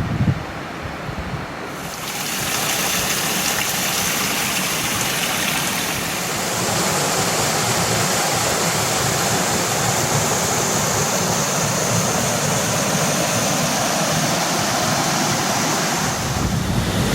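Waterfall: a steady rush of falling water that gets louder about two seconds in and then holds even. Wind buffets the microphone at the start and again near the end.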